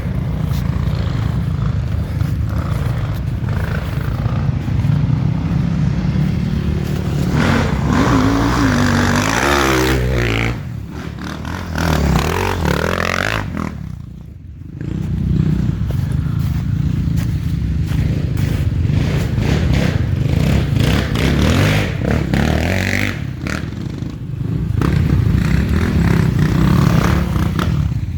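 Enduro motorcycle engine running and revving, its pitch rising and falling, with a short drop in loudness about fourteen seconds in.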